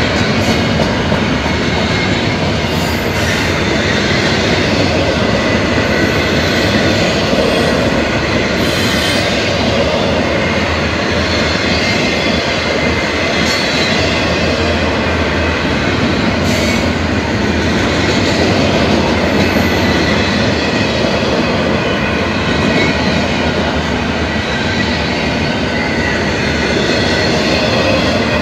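Double-stack intermodal freight train's container well cars rolling past: a steady, loud rumble of steel wheels on rail, with a faint thin wheel squeal over it and a few light clanks.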